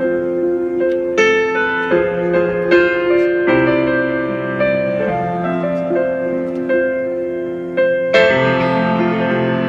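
Solo piano played live: chords and melody notes struck and left to ring, with a new chord about every second and a fuller, louder chord near the end.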